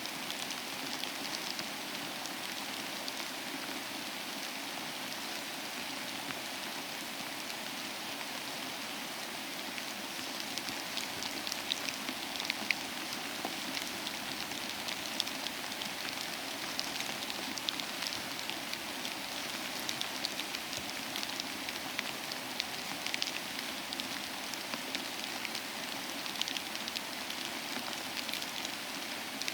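Steady rainfall with many individual drops pattering on a surface, a continuous hiss with closer, sharper drop ticks picking up after about ten seconds.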